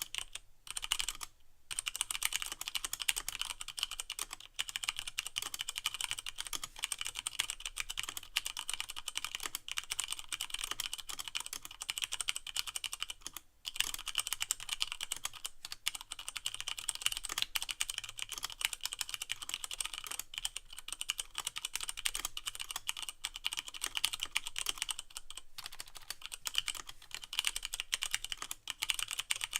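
Fast continuous typing on a Leopold FC660M mechanical keyboard with Cherry MX Brown switches and no O-rings, the keys clacking as they bottom out, with brief pauses about a second and a half and thirteen seconds in.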